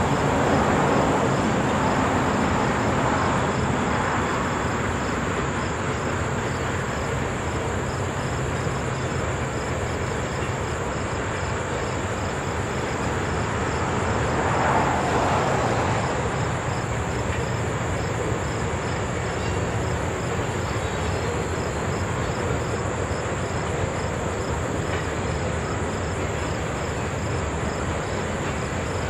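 Norfolk Southern coal train's hopper cars rolling over the rails: a steady rumble of wheels and cars, swelling briefly about a second in and again about halfway through.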